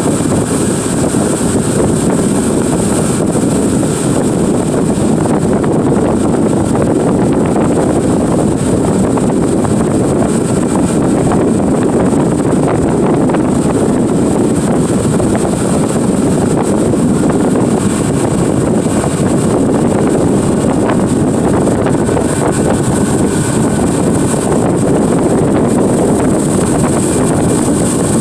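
Tour boat's engine running steadily at speed, with wind buffeting the microphone.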